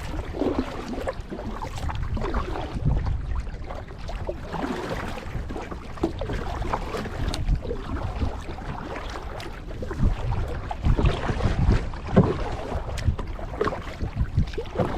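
Kayak paddle strokes pulling through lake water, with splashing and water against the hull, the kayak being paddled hard to speed up. Wind buffets the microphone as a low rumble underneath.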